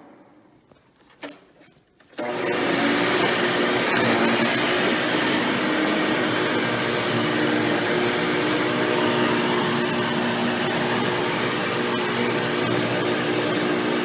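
Hoover Power Drive Supreme upright vacuum, fitted with a 20-blade impeller fan, switched on about two seconds in after a single click. It starts suddenly and runs steadily, with a motor hum.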